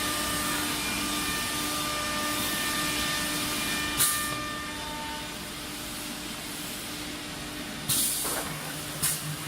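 Disk-magazine automatic-tool-change CNC router running with a steady hum, broken by three short hisses of compressed air, about four seconds in and twice near the end, as the pneumatic tool changer works.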